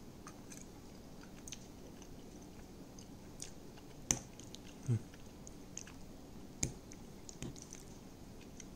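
A person quietly chewing a mouthful of pasta in cheese sauce, with scattered small clicks. There are a couple of sharper clicks and a brief low falling sound about five seconds in.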